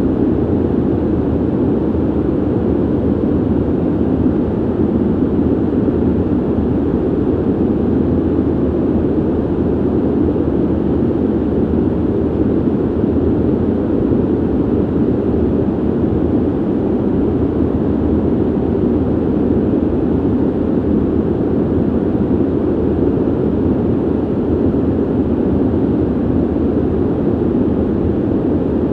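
Steady ventilation noise: an even, low, muffled rush of air that does not change.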